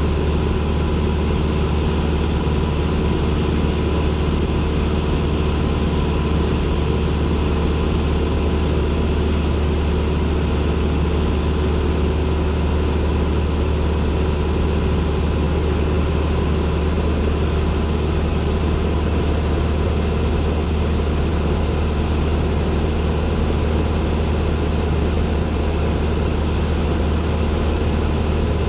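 Cessna 172N's four-cylinder Lycoming engine and propeller running steadily, heard inside the cockpit as a constant low hum with no change in pitch or level.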